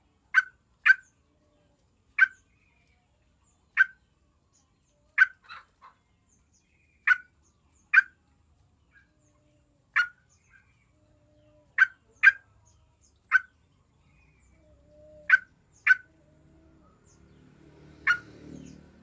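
Yellow-vented bulbul giving short, sharp call notes, singly or in quick pairs, every second or so at irregular intervals.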